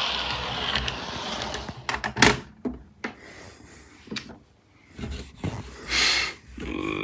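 Rubbing and scraping of model railway track being cleaned by hand, with a few sharp knocks about two seconds in and another stretch of scraping near the end.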